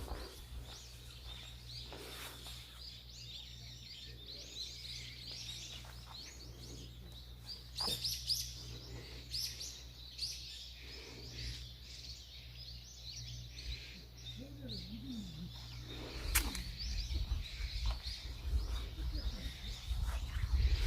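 Small songbirds chirping and twittering, with many short, high, quick calls overlapping, over a steady low rumble. A couple of sharp clicks come through, one near the middle and one about three quarters of the way in.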